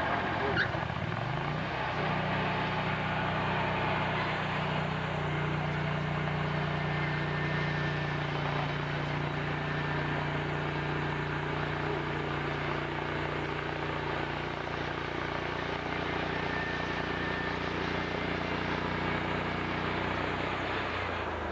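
An engine revs up over the first two seconds, then runs steadily at high speed. It eases off slightly near the end.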